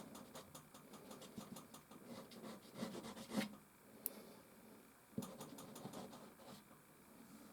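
Soft pastel stick scratching across canvas in quick, short, repeated strokes, several a second, with a sharp tap about four seconds in and then a few more strokes.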